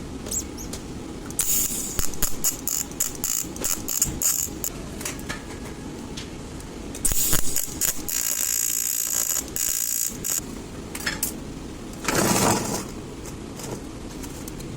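Electric welding arc on thin drink cans, crackling in irregular bursts for a few seconds. About seven seconds in it gives a steadier hiss lasting around three seconds, then one more short burst near the end.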